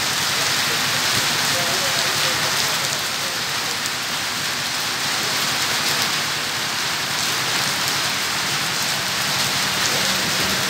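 Steady rain falling on a wet road and pavement, an even, unbroken hiss.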